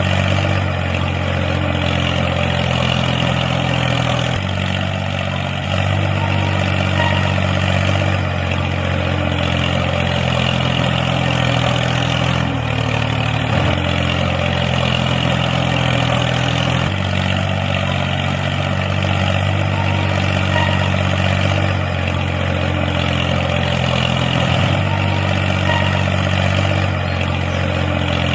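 A small motor running steadily with a low hum and a rattly whir above it. The hum shifts pitch every few seconds, as if the load on the motor changes.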